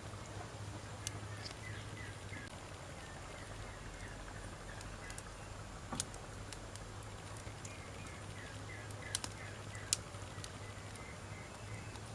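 Wood campfire burning with a steady low hiss and a few sharp pops and crackles, the strongest about six and ten seconds in. Faint runs of short chirps come twice.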